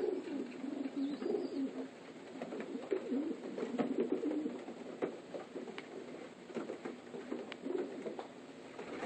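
Racing pigeons cooing continuously in the loft, a low warbling chorus of several birds, with scattered light clicks and rustles.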